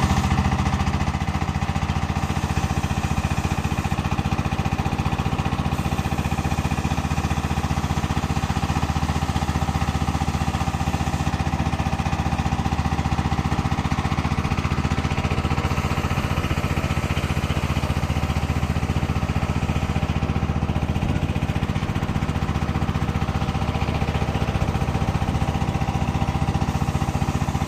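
Two concrete mixers running steadily: a constant low engine drone with a fast, even pulsing.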